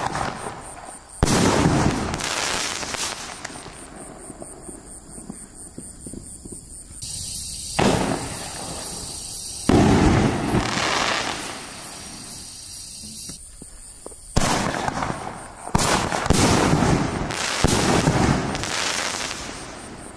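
50 mm aerial fireworks shells being fired from mortar tubes and bursting overhead: a series of sudden booms, each with a rumbling tail, and a few smaller sharp pops in between.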